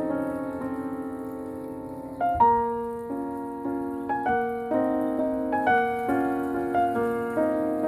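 Piano music: a held chord fades away, then a new phrase of struck notes begins a little over two seconds in and goes on at an even pace.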